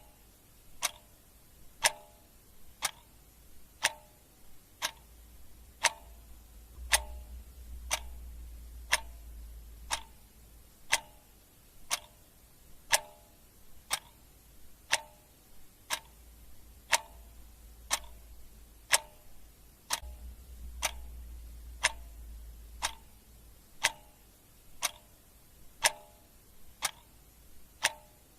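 Clock ticking sound effect: a steady tick-tock with a sharp tick about once a second and softer ticks in between.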